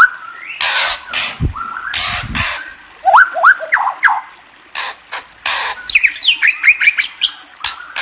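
A bird calling with quick series of short rising chirps, broken up by several harsh, noisy squawk-like bursts; a brief low thump comes about a second and a half in.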